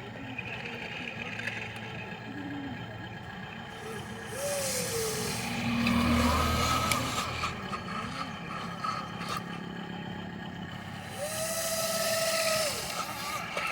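Radio-controlled model truck running, with two spells of air-brake-like hiss about four and eleven seconds in, and a few short pitch glides.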